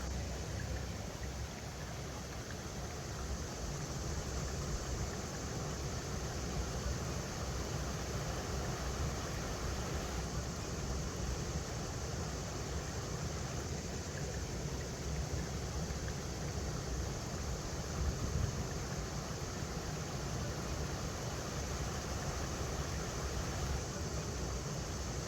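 River water running steadily over rocks, an even rushing noise with a strong low rumble.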